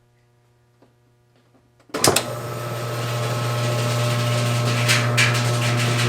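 Whirlpool/Kenmore top-load washer switching on about two seconds in: its motor and drive start suddenly and run steadily, getting a little louder as the drive spins up, with a few light knocks. It is a test run to see whether the washer now spins properly.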